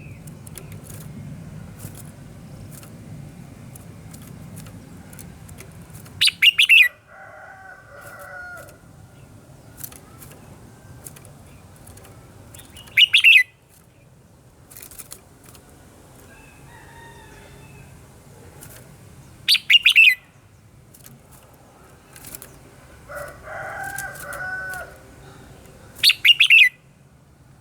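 Red-whiskered bulbul singing. Four loud, short, harsh bursts come about every six and a half seconds, and softer warbled phrases fall between them.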